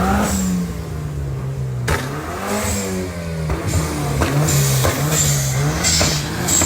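Car engine revving hard and held high, its pitch swinging up and down again and again.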